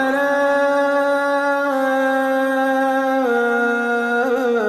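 Quran recitation: a single reciter's voice holds one long, drawn-out vowel, the madd on "wa tara" ("and you will see"). The note is held steady, steps down in pitch twice and has a brief melodic ornament near the end.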